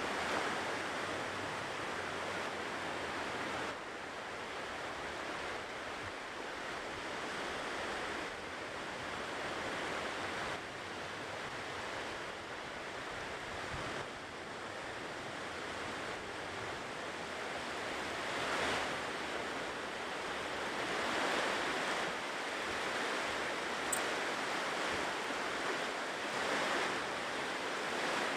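Ocean surf washing onto a shore: a steady rush of waves that swells a little louder several times in the second half.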